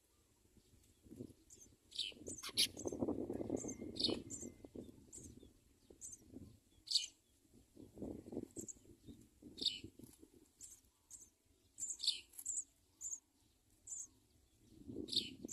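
House sparrows chirping: short, sharp chirps, one every second or two, with bursts of low noise in between.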